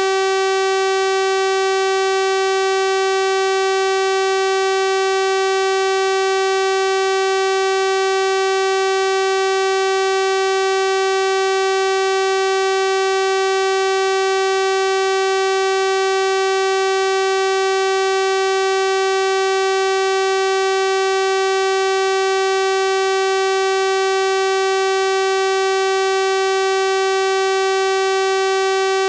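A steady synthesized 384 Hz sawtooth-wave tone, a buzzy unwavering pitch with a full series of overtones, held without change.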